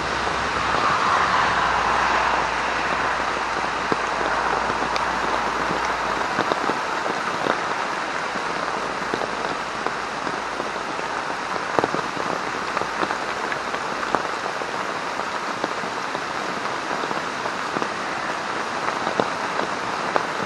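Heavy rain falling steadily and pattering on a military poncho rigged as a tarp overhead, with scattered louder drops landing close by.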